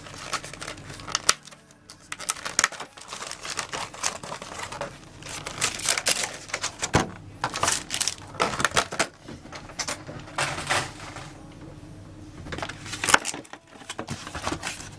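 Foil trading-card booster packs crinkling and a cardboard display box rustling as the packs are pulled out by hand, with irregular taps and clicks throughout.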